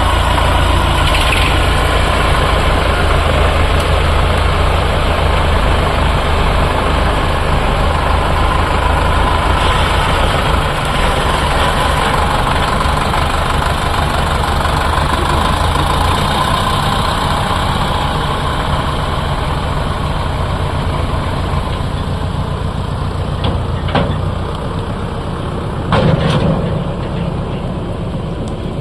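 Sonalika tractor's diesel engine running steadily with an even drone. Near the end come two sharp knocks about two seconds apart, the second louder.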